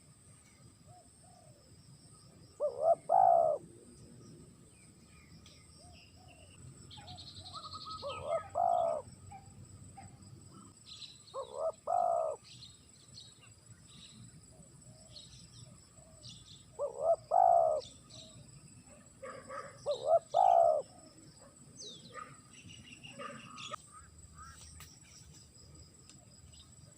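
Spotted dove cooing: five short phrases of two or three low coos each, several seconds apart. Fainter chirps of small birds in between.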